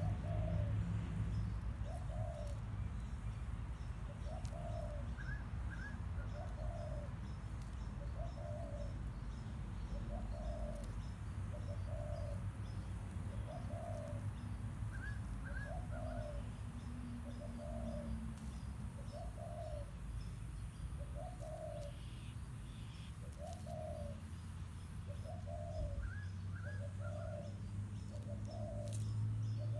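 A bird calling over and over, one short note about every second and a half, with a higher quick chirp of two or three notes heard three times. A steady low hum runs underneath.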